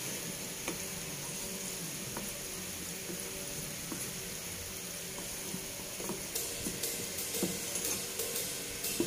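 Sambal with petai beans sizzling in a wok while a wooden spoon stirs it. The spoon makes soft scrapes and taps that come more often in the second half.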